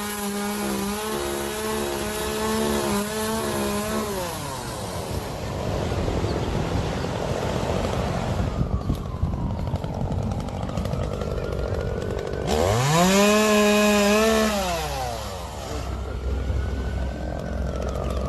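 Chainsaw revved to full throttle and held for about four seconds, then dropping back to a lower engine note. It revs up again for about two seconds past the middle and falls off again.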